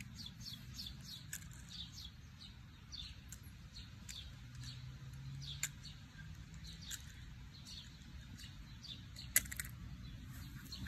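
Small birds chirping: many short, high chirps that fall in pitch, repeated throughout, over a faint low background rumble. One sharp click comes about nine seconds in.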